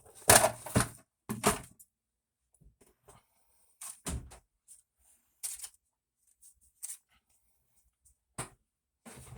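Irregular rubbing and knocking from hand work on a pocketknife at the bench. The loudest handling comes in the first second, followed by a few short, scattered scrapes and knocks.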